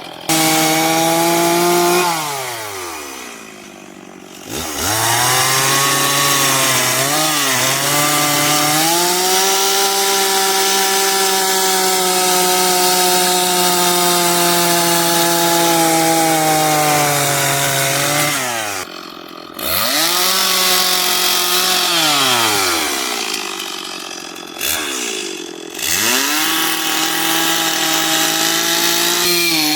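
Chainsaw cutting into a log to carve out a bear's cheek, its engine held at high revs through long cuts. The revs drop off and climb back three times, about two seconds in, past the middle, and near the end, as the saw comes out of the wood between cuts.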